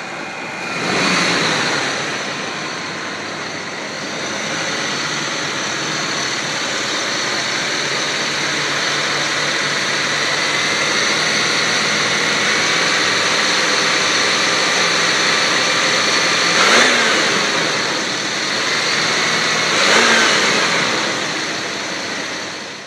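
A 1997 Jeep Grand Cherokee's 5.2 L Magnum V8 running steadily at idle, with two short revs of the throttle near the end, a few seconds apart.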